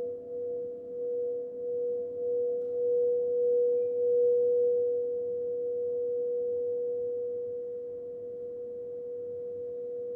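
Crystal singing bowl sounding one steady tone, pulsing in loudness at first, swelling to its loudest about four seconds in, then holding and slowly easing off.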